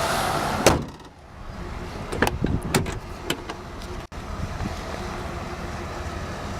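The 1999 Chevrolet Malibu's hood slammed shut about a second in, one sharp loud bang that cuts off the louder noise from the open engine bay. A quieter steady hum follows, with a few light clicks and knocks, as of the door latch and door being opened.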